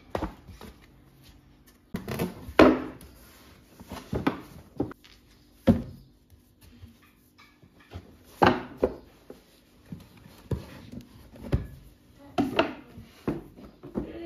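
Irregular knocks and clatters of household objects being handled and set down while belongings are put away, the loudest about two and a half seconds in.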